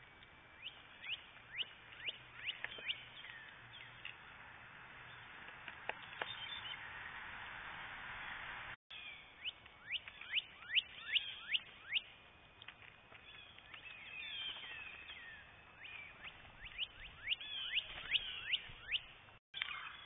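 Songbirds giving many short, sharp chip calls, each a quick downward sweep, in busy flurries, with a brief hiss swelling up in the middle. The sound drops out for an instant twice.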